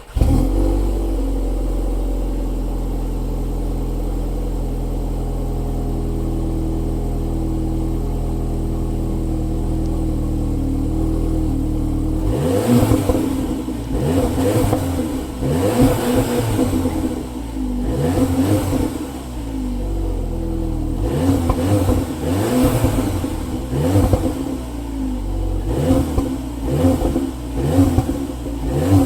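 VW Polo GTI exhaust with a petrol particulate filter, its turbocharged four-cylinder idling steadily, then revved in a long series of quick blips that rise and fall. It sounds muted, with a little gurgle and tiny pops.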